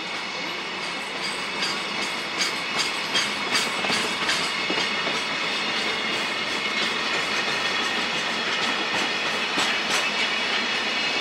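Train running past, its wheels clacking over rail joints in a quick run of clicks, with a steady high-pitched whine or squeal over the rolling noise.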